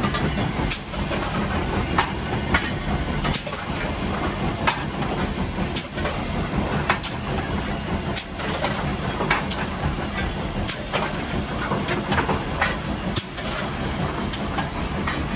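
Nevada Northern No. 81 steam locomotive heard from inside its cab while working up a grade: a steady loud roar and hiss of steam, with sharp beats at a regular spacing of a little more than one a second.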